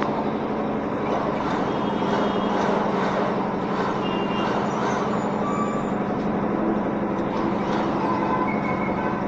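A small electric motor running steadily, a constant hum under an even wash of whooshing noise.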